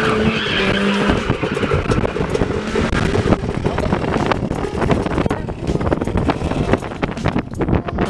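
Car engine revving and tyres squealing in a drift attempt, the squeal strongest in the first second. Then comes a loud, steady rush of tyre and engine noise with many small knocks through it.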